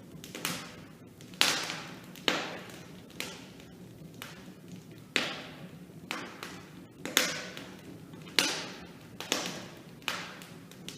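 Wood fire in a brick fireplace crackling, with sharp irregular pops roughly once a second over a low hiss.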